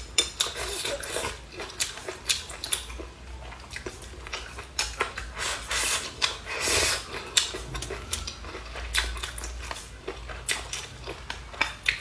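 Close-miked chewing and mouth sounds of a person eating, with many irregular sharp clicks and short crunchy bursts and occasional clinks of utensils against a bowl.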